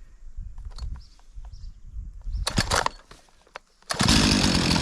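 A few handling knocks and a short rasping noise, then about four seconds in a chainsaw's two-stroke engine starts suddenly and runs steadily and loudly.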